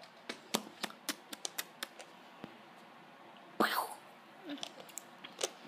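Light, irregular clicks and taps, about a dozen in the first two seconds and a few more later, with one short rising squeak about three and a half seconds in.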